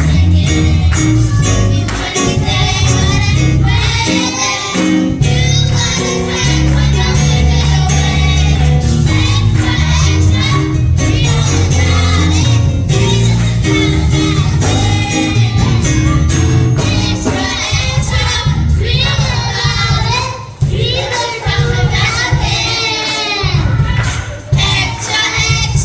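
Gospel worship song: a church choir and singers over a band with a heavy bass line. About two-thirds of the way in the bass thins out, leaving mostly the singing voices.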